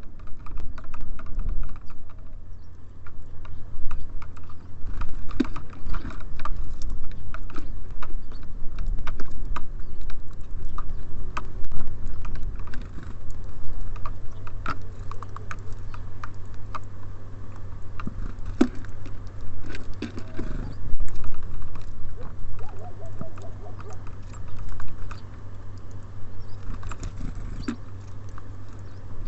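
Small birds pecking at seed and hopping about on a bird feeder close to the microphone: irregular quick taps and scratches, over a steady low rumble.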